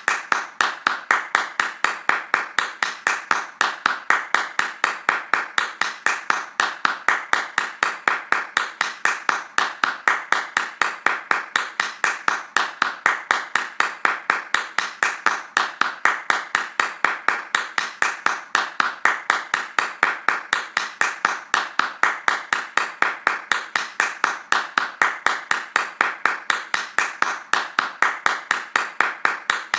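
Hands clapping fast in a steady, even rhythm, several claps a second without a break.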